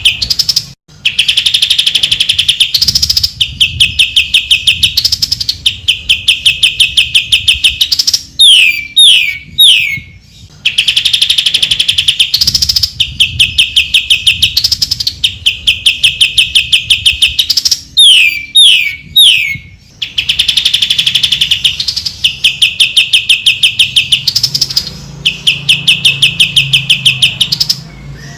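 Cucak ijo (green leafbird) singing loudly: phrases of very rapid, repeated high notes with short gaps between them, and twice a run of three falling whistles. The same sequence comes round about every ten seconds, as in a looped training recording.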